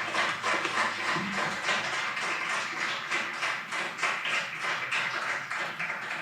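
Scattered handclapping from a small audience: many separate claps, several a second, fading slightly toward the end.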